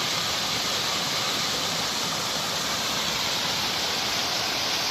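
Small waterfall running low in a drought: a steady, even rush of falling water.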